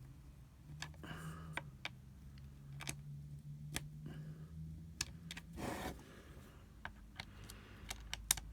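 Scattered small sharp clicks and clinks of a cheap screwdriver and its metal bits being handled and tried in a screw, with a brief scraping rustle about two-thirds of the way through, over a low steady hum.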